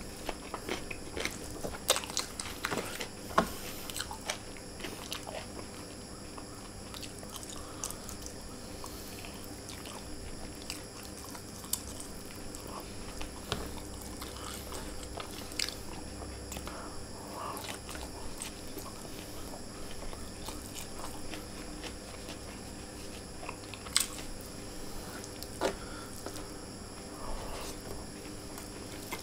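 Close-up mouth sounds of a person chewing rice and chicken eaten by hand, with scattered wet smacks and sharp clicks, a few louder ones about two seconds in, about three and a half seconds in and near the end.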